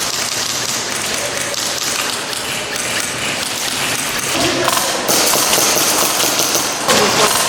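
Airsoft guns firing in rapid full-auto strings, a dense clatter of clicks that gets louder about five seconds in.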